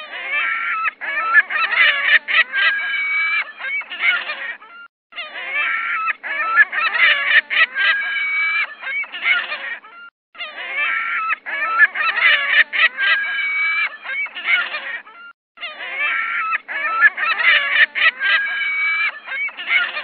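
Honking bird calls in a dense flurry, one short recording of about five seconds played four times in a row with brief gaps between.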